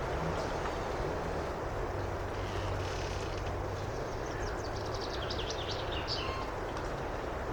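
Steady wind through a forest, with a songbird singing a quick run of high notes about two thirds of the way in. A low, steady drone lies under it.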